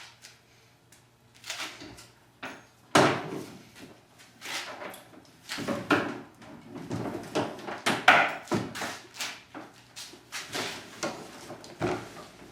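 Irregular knocks, clunks and scrapes of gear being handled and moved about, with louder bangs about 3 and 8 seconds in.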